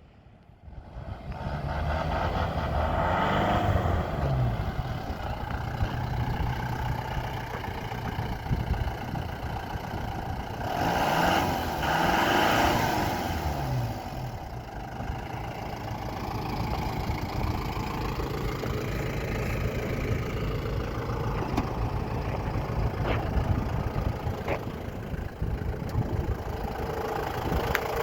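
Toyota Dyna truck's engine running at idle, revved up and back down twice about midway through.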